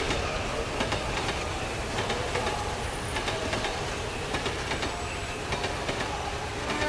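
Train running on the tracks: a steady rumble with the clickety-clack of wheels over the rail joints.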